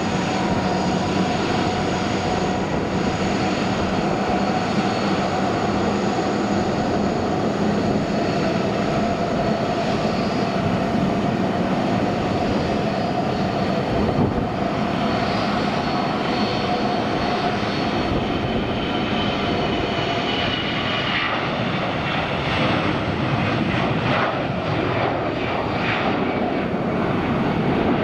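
Airbus A321-211 jet engines at takeoff power, a steady loud jet noise with high whining fan tones. The tones slide lower in pitch about twenty seconds in as the airliner goes past.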